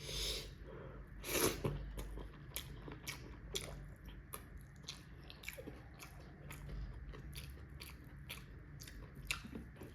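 Close-up mouth sounds of a person chewing food: a steady run of small wet clicks, a few a second, with louder crunchy bites near the start and about a second and a half in.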